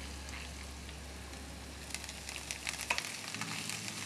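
Minced garlic and chopped fresh coriander sizzling in hot olive oil in a steel pot. From about two seconds in, a stirring utensil scrapes and taps against the pot.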